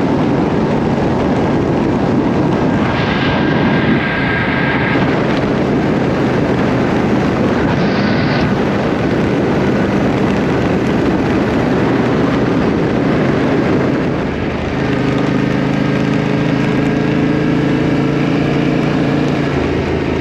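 Motorcycle on the move, with heavy wind rush on the microphone. About two-thirds of the way through, the engine's steady drone comes through more clearly.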